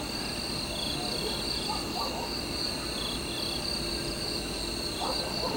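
Crickets and other insects trilling steadily, several at different pitches, with one chirping in short repeated pulses.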